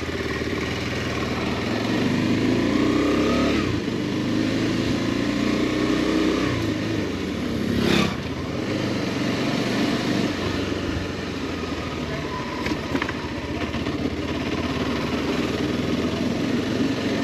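Motorcycle engine running as the bike rides along, its pitch rising and falling with throttle and gear changes. A brief louder rush of noise about eight seconds in.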